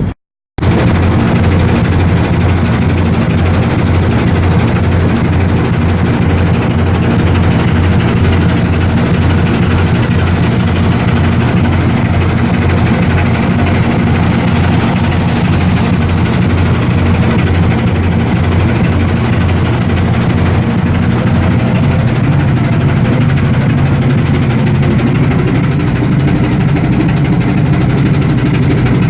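Large marine diesel engine running steadily at constant speed: a deep, even drone with a regular low pulse. The sound cuts out for about half a second just after the start.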